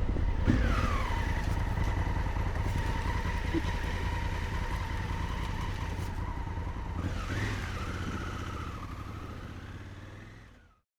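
Honda Africa Twin motorcycle engine running steadily, with a whine that drops in pitch about half a second in and rises again near the end, then fading out to silence.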